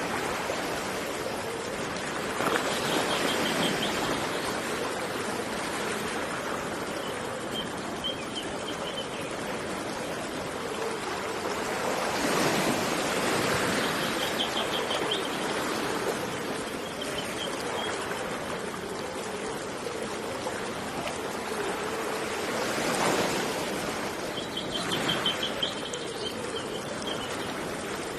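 Steady rush of running water, swelling louder three times, with a small bird giving a short high trill about five times over it.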